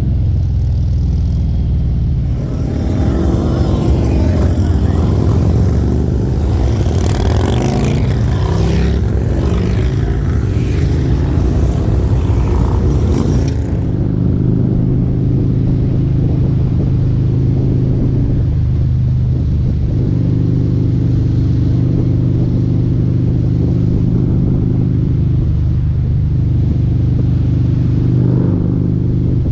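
Harley-Davidson V-twin motorcycle engine running at a steady cruise, heard from on the ride. From about two seconds in to about fourteen seconds in, a loud rushing noise lies over it.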